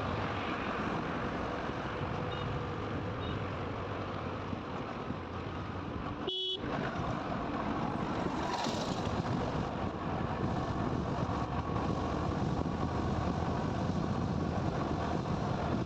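Steady wind and road noise of a motorcycle riding along a highway, with a brief break in the sound about six seconds in.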